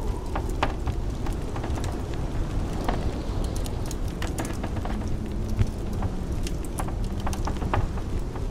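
Wood fire crackling, with irregular sharp pops over a steady low rumble of blizzard wind.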